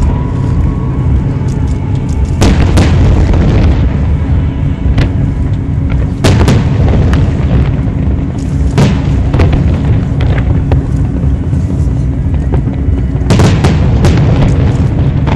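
Fireworks shells going off in repeated booms over a continuous low rumble, with sharp bangs about 2.5, 6 and 9 seconds in and a heavier cluster near the end. Music plays underneath.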